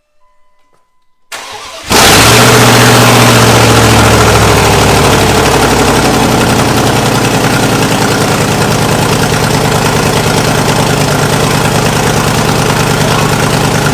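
Small-block V8 of a 2nd-gen Dodge Ram turned over briefly by the starter, catching about two seconds in and running loud and steady on open headers at its first start after a rebuild.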